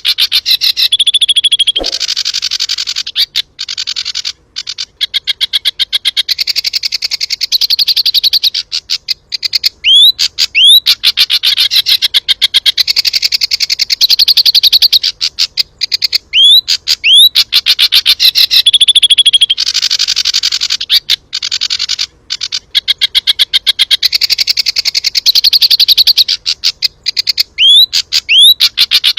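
Jongkangan songbird singing its 'tembakan' song: long, very fast trills of sharp repeated notes, broken every few seconds by short rising whistled slurs.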